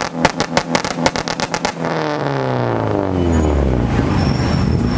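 A tuned car's exhaust cracking out rapid bangs, about nine a second, as at a flame-spitting fire show. A little under two seconds in the bangs stop and the engine revs fall away in a long drop in pitch.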